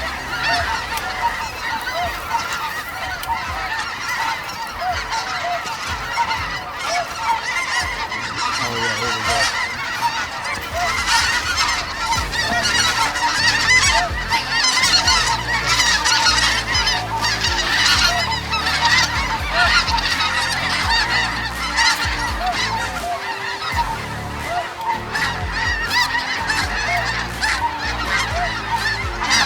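Snow geese calling en masse: a dense, unbroken chorus of overlapping high honks, swelling in the middle, over a low wind rumble on the microphone.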